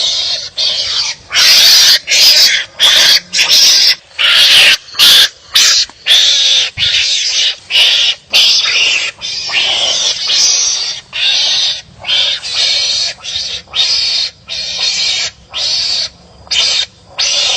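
Loud, raspy animal calls, each about half a second long, repeating roughly once a second: wild animals calling at each other during a fight.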